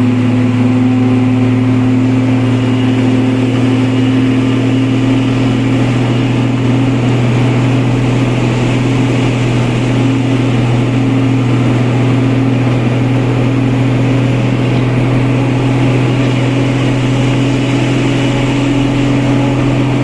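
Loaded truck's engine, carrying about 13 tonnes, running steadily under load as a loud, even drone, its pitch creeping up slightly near the end.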